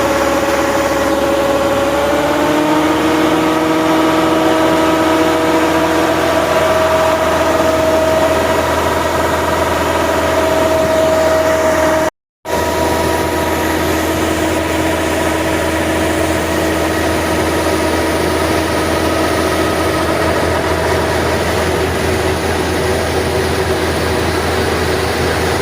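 Chinese combine harvester's engine and machinery running steadily, with a slight shift in pitch about two seconds in. The sound drops out for a moment about halfway through, then resumes unchanged.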